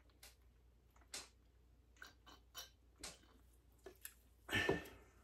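Faint mouth sounds of a man chewing a bite of turkey sandwich: soft irregular clicks and smacks, with one louder, longer noise about four and a half seconds in.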